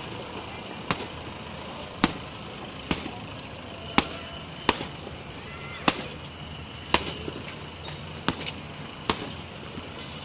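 Heavy punching bag being struck about ten times, hard single blows roughly once a second at an uneven pace, some followed by a short rattle.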